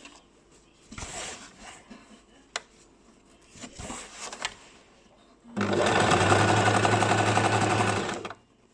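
Basic electric sewing machine stitching in one steady run of about two and a half seconds, starting a little past halfway and stopping shortly before the end. Before it come a few light clicks and handling sounds.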